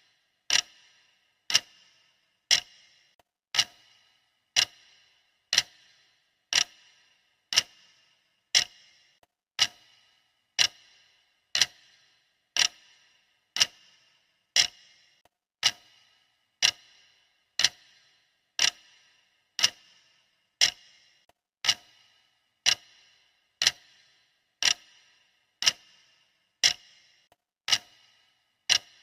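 Clock-style ticking sound effect of a countdown timer: one sharp tick every second, each with a short bright ring, evenly paced.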